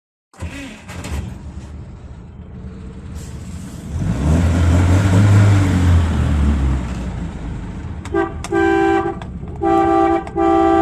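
A Volga car's engine starts, runs, and is revved up for a few seconds before settling back to a fast idle. Near the end the car horn is sounded four times, the first a short blip.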